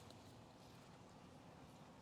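Near silence: faint background hiss with no distinct sound.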